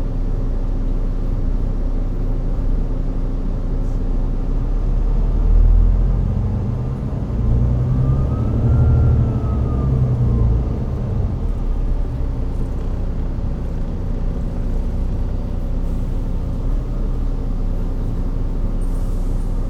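Volvo B9TL bus's D9B diesel engine and Voith automatic gearbox running with a steady hum, then swelling and rising in pitch between about five and ten seconds in, with a thin whine that rises and falls, before settling back to a steady run.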